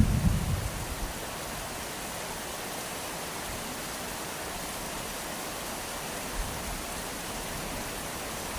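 Steady rain falling, an even hiss, with a brief low rumble that fades out in the first second.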